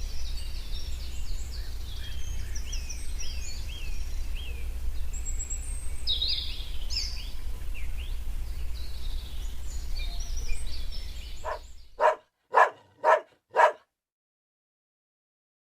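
Many small birds chirping, with short quick calls, over a steady low rumble. Near the end this gives way to four short pitched animal calls about half a second apart, followed by silence.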